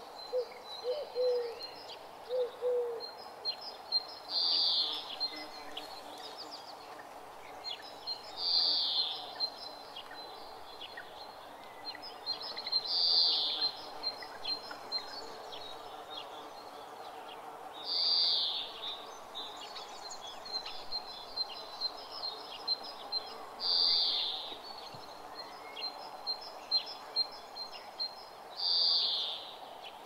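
Wild birds singing in a morning chorus. One bird repeats a loud, high song phrase about every four to five seconds, with many short high chirps between, and a few low calls in the first three seconds, over a faint steady outdoor background.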